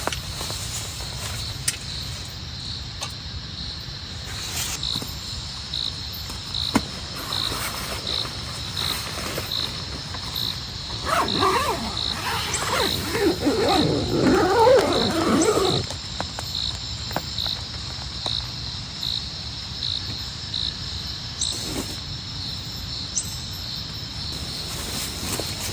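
An insect chirping at an even pace, under twice a second, over a steady rain-like wash of noise. About halfway through, a louder irregular sound with shifting pitch rises over it for several seconds.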